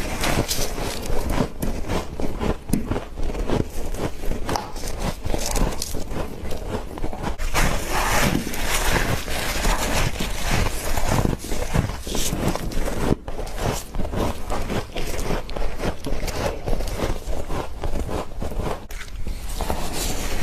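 Frost being bitten and chewed close up: a dense, unbroken run of crisp crunches and crackles.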